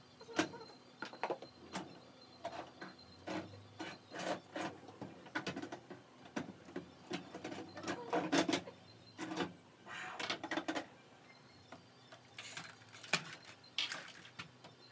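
Irregular clicks, knocks and short scraping rustles of household objects being handled and moved while cleaning a room, several a second at times.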